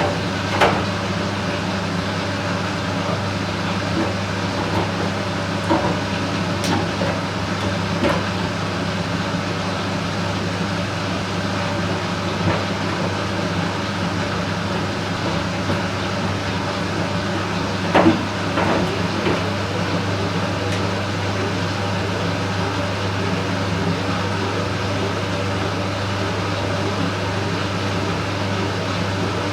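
Candy Smart Inverter front-loading washing machine running with a steady low hum, and a few short knocks from the drum, the loudest about eighteen seconds in.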